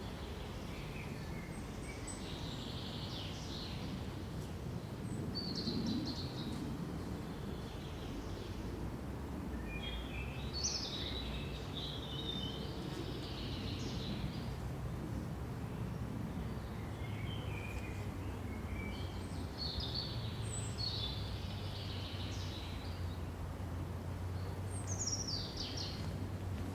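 Songbirds singing short chirping phrases every few seconds over a steady low rumble of background noise.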